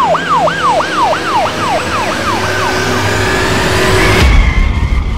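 Police car siren in quick falling sweeps, about three a second, fading away over the first three seconds above steady car engine and road noise. About four seconds in, a loud low rush of engine and tyre noise as a car speeds off.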